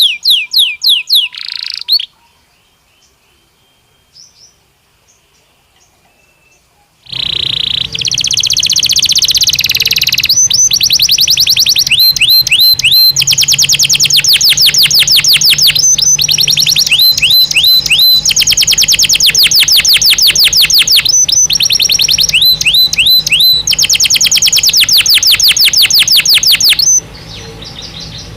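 Belgian canary (domestic canary) singing in fast trills of rapidly repeated high notes. The song breaks off about two seconds in for a few seconds of near quiet with a few faint notes, then resumes loud in long unbroken rolls, easing off shortly before the end.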